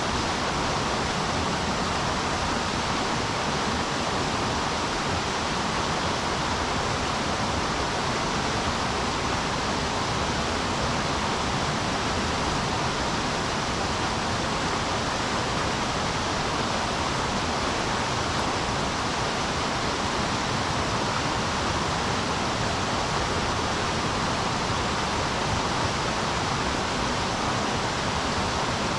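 River water rushing steadily, an unbroken hiss of current with no single splashes standing out.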